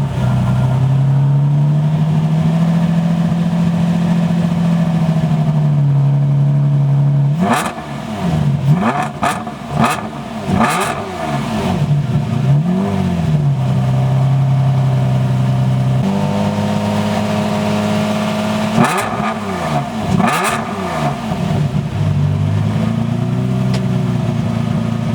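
V12 supercar engine idling at a steady, raised idle, broken twice by a run of quick throttle blips that rev up sharply and fall back each time.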